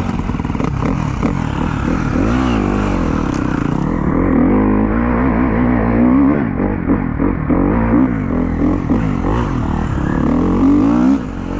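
Dirt bike engine revving up and down over and over, its pitch rising and falling about once a second as the throttle is worked.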